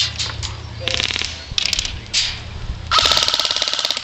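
Airsoft gun firing full-auto bursts of rapid clicks: a short burst about a second in, a brief one just after, and a louder burst lasting about a second near the end.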